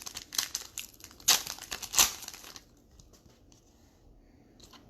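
Crinkling and tearing of a foil trading-card pack wrapper as cards are handled: a quick run of sharp crinkles, loudest twice, about a second and two seconds in, fading to a few faint rustles after about two and a half seconds.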